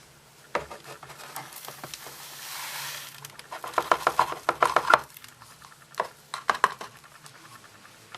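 Hoover HTC 172 washing machine early in a synthetics wash with prewash: a series of rapid clicks and knocks, with a brief rushing hiss about two seconds in and a faint steady low hum underneath.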